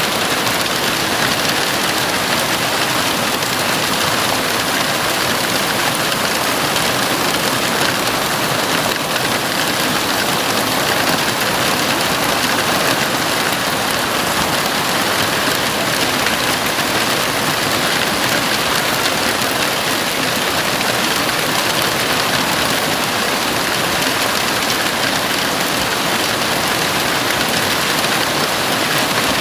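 Heavy rain falling on a house roof, a dense, steady hiss with no letup.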